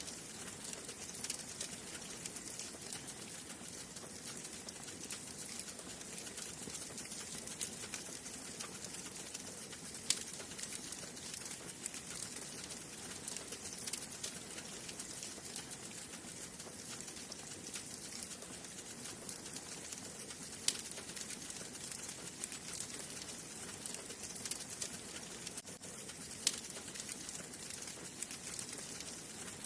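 Wood fire burning in a fireplace: a steady soft hiss full of small, constant crackles, with a few sharper, louder pops now and then.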